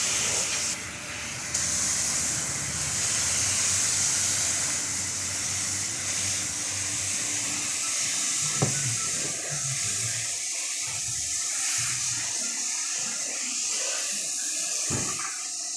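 A steady spraying hiss of liquid forced out under pressure, with a low hum beneath it for the first ten seconds or so and a few short knocks near the end.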